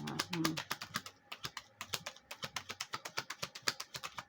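Tarot cards being handled and shuffled by hand: a rapid, continuous run of light clicks and flicks.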